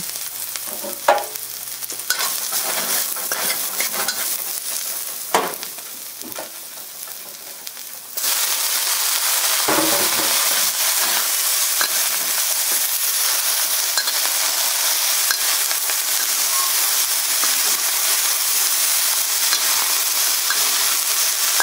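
Chopped ginger and garlic sizzling in hot oil in a wok, with a few scrapes of the spatula. About eight seconds in, the sizzle turns suddenly much louder and stays loud as broccoli fries and is stirred in the oil.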